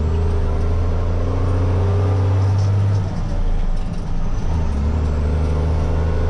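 Grain truck's engine running on the road, heard from inside the cab as a steady low drone. About three seconds in the drone drops away for a second or so, then comes back.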